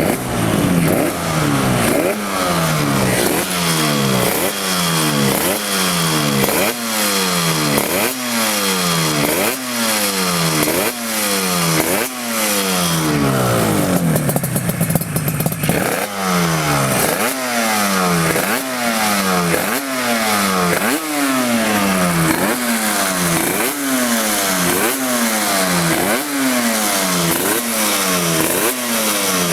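Yamaha RZ350 two-stroke parallel-twin engine with expansion-chamber exhausts, revved in quick throttle blips about once a second, the revs falling back after each. About halfway through it runs steadier for a few seconds before the blipping resumes.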